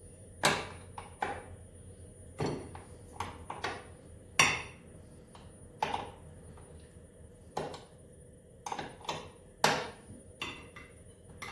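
Metal hand tools clinking, tapping and knocking against snowmobile engine parts in irregular single strikes, a few ringing briefly, the loudest about four and a half and ten seconds in.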